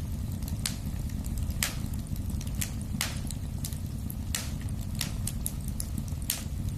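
Wood fire burning in a fireplace: a steady low rumble of the flames with irregular sharp crackles and pops from the burning logs, a handful of them louder than the rest.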